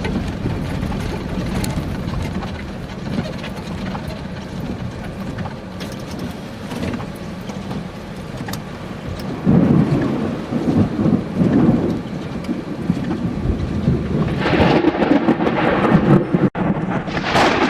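Thunderstorm: steady rain noise with a low rumble of thunder about ten seconds in, and a louder rush of noise near the end.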